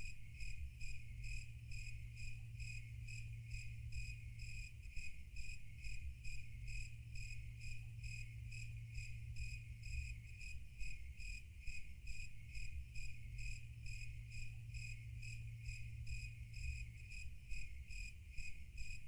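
Crickets chirping steadily in a regular, evenly spaced rhythm of high chirps, about three a second, over a low steady hum.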